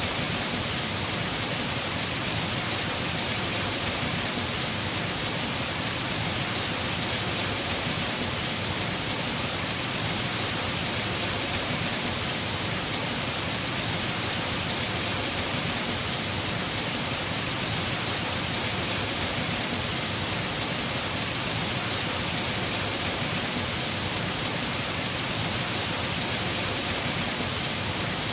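Heavy rain falling steadily on a house roof: an even, unbroken hiss.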